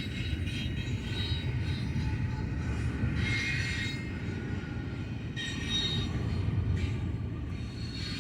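Freight cars of a long train rolling past with a steady low rumble, the steel wheels squealing in high rings that come and go, loudest about three seconds in and again near six seconds.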